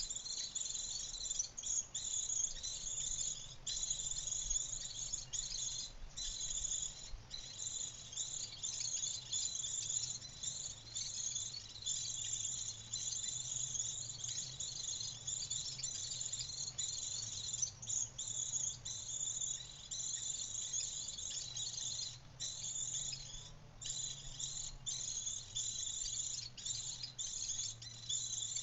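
A dense, high-pitched insect chorus, like crickets or cicadas, chirring continuously with brief breaks, over a faint low hum.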